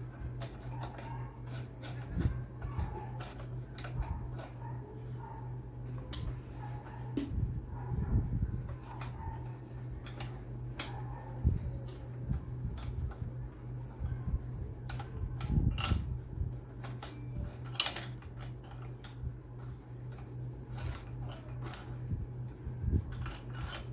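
Light clicks, taps and knocks of metal and plastic meat-grinder parts being handled as the locking ring is fitted and screwed onto the grinder head, over a steady high chirring like crickets and a low hum.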